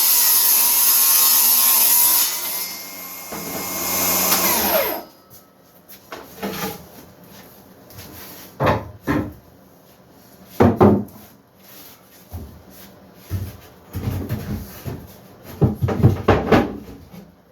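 A power saw runs loud and steady through wood, eases off, then spins down with a falling whine about five seconds in. Scattered knocks and clunks of wooden parts being handled and fitted together follow.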